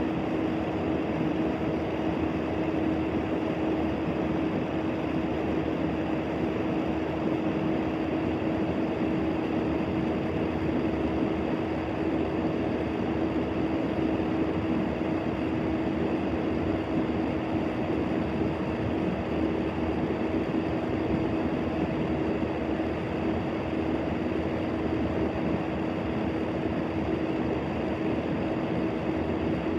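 Steady, unchanging drone of dense noise with a constant hum held on one pitch.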